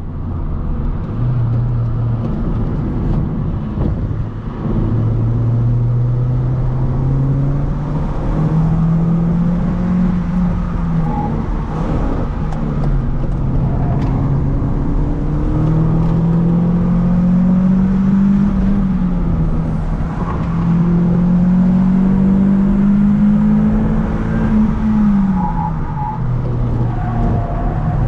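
Car engine heard from inside the cabin while it is driven hard round a track. The engine note climbs through the revs, drops back and climbs again several times, with a sharp fall near the end as the car slows for a corner.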